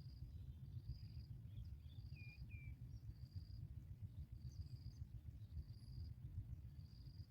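An insect chirping a high, even note about once a second, over a low rumble. A few short bird chirps come about two seconds in.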